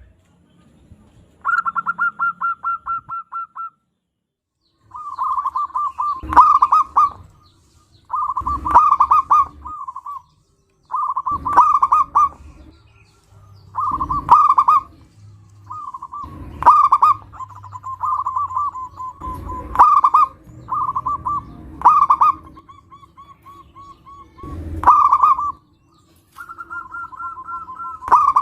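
Zebra dove (perkutut) singing: repeated staccato cooing phrases every two to three seconds, opening with a fast run of short notes.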